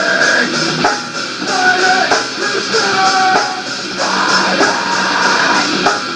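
Guitar-driven rock music from a band's demo recording, with held guitar notes struck about once a second.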